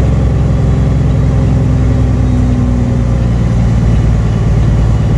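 Straight-piped Caterpillar C15 diesel of a loaded semi truck running steadily down the highway, a deep even engine note.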